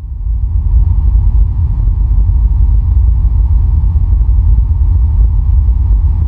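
A deep, steady low rumble that fades in at the start and then holds at an even level.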